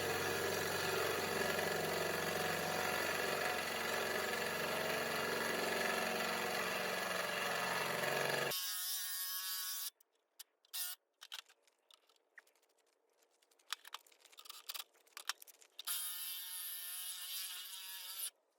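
Electric drill running steadily with a whining motor, drilling out a stuck bolt. It stops abruptly about eight and a half seconds in, followed by a few faint clicks and a shorter, quieter run near the end.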